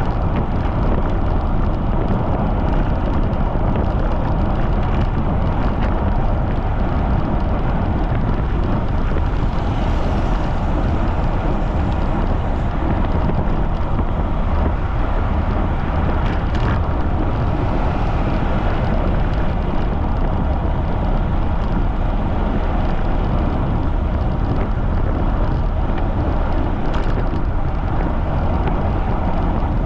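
Strong wind buffeting the microphone of a camera on a moving bicycle: a loud, steady rushing noise, heaviest in the low end.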